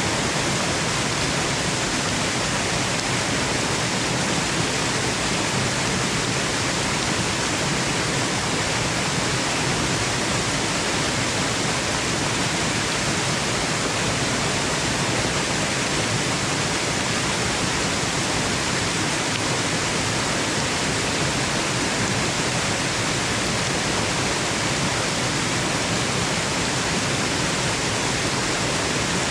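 Waterfall: a steady, unbroken rush of falling water, even across low and high pitches like pink noise.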